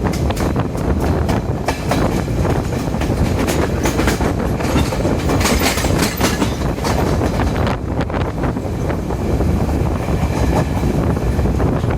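Diesel multiple-unit express train running along the line, a steady low rumble with the wheels clicking over rail joints, the clicks thinning out in the last few seconds.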